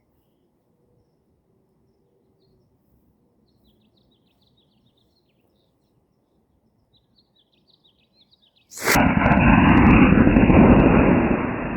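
Estes D6-8 model rocket motor igniting with a sharp crack about nine seconds in, then the loud rushing roar of its burn, which begins to ease off near the end. Before it, only faint bird chirps.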